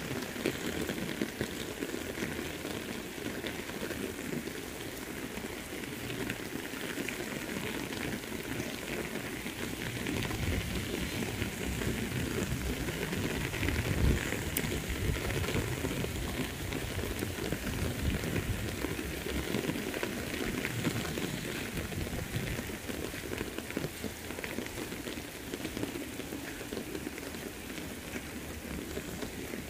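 Heavy rain falling steadily, a dense patter on leaves and ground. One brief louder knock about fourteen seconds in.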